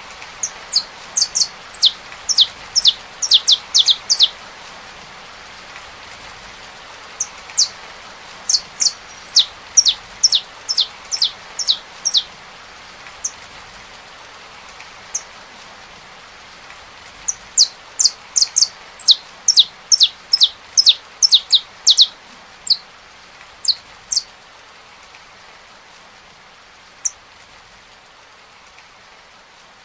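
Saffron finch singing in three bouts of quick, sharp, descending high notes, over a steady hiss of rain.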